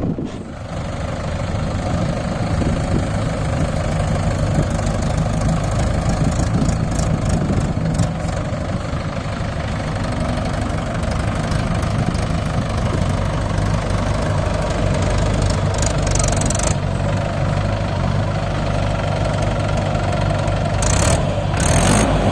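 Tractor diesel engine running steadily, with a few brief rattles now and then.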